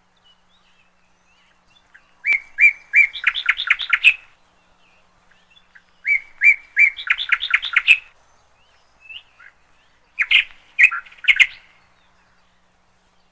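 A songbird singing three short phrases, each opening with a few spaced notes and running into a quick series of chirps; the last phrase is shorter.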